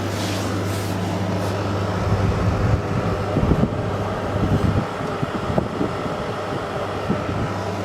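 Olimpia Splendid Dolceclima Nano Silent portable air conditioner running: a steady low hum under an even rush of fan air. Irregular low rumbles come and go in the middle.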